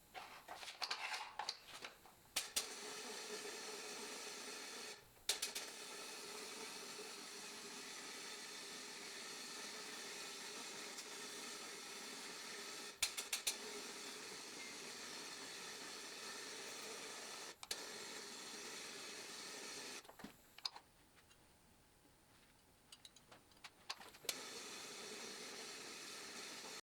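Powder-coating spray gun blowing powder on compressed air: a steady hiss that runs in long spells, stops briefly about five seconds in, breaks off for a few seconds near the end, then starts again, with a few clicks in between.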